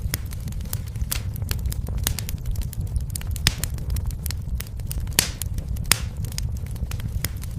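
Wood fire burning in a fireplace: irregular crackles with a few sharper pops over a low, steady rumble of flame.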